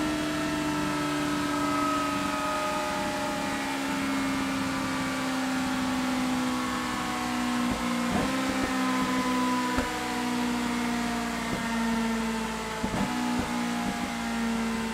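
BMW S1000 XR's inline-four engine running through a Scorpion Serket Parallel slip-on exhaust on a dyno, its pitch sinking slowly and evenly as the revs drop. Several short sharp clicks or pops come in from about halfway through.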